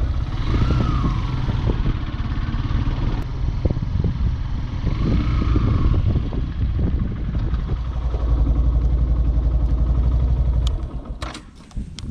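Yamaha FZS V3's single-cylinder engine and exhaust running as the motorcycle is ridden, with a steady pulsing note. The engine sound drops away about eleven seconds in, followed by a few sharp clicks.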